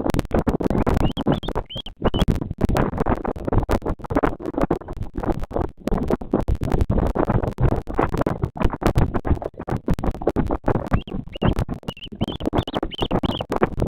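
Loud, ragged rustling and crackling noise at the nest microphone, with a few short high chirps about a second in and a cluster more near the end.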